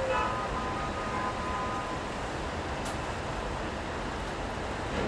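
Steady city street traffic noise, wet-road ambience. A brief pitched sound rises over it in the first two seconds, and there is a single sharp click about three seconds in.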